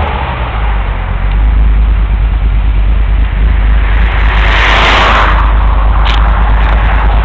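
Car engine idling through a Billy Boat performance exhaust with a deep, steady low rumble, settling after a rev. About four seconds in, a passing car's road noise swells and fades over it.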